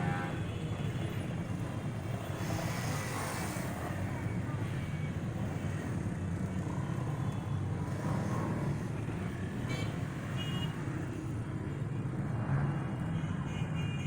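Cars and motorcycles driving past, their engines making a steady low rumble of traffic.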